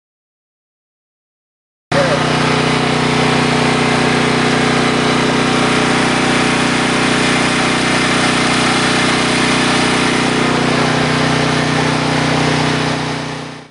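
An engine running steadily at a constant speed. It starts abruptly about two seconds in and cuts off suddenly at the end.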